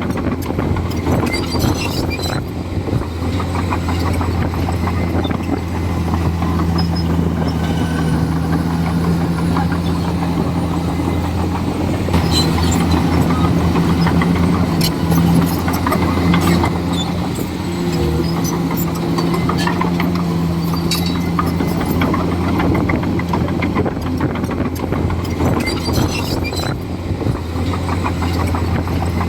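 Diesel engine of a Komatsu D41E crawler bulldozer running steadily at a constant pitch while working, with scattered clanks over it.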